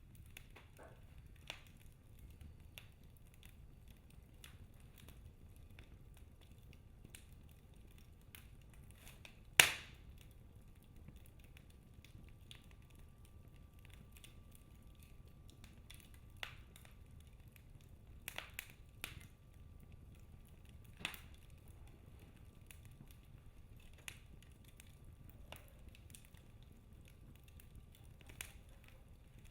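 Wood fire in a fireplace crackling: scattered faint snaps and pops over a low steady rumble of the flames, with one sharp, much louder pop about ten seconds in and a cluster of smaller pops a little later.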